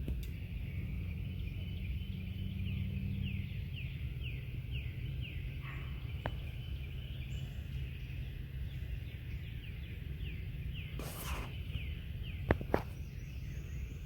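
Birds calling, a quick repeated series of short falling chirps, over a steady low rumble of distant highway traffic. A brief rushing noise comes about eleven seconds in, and two sharp clicks near the end.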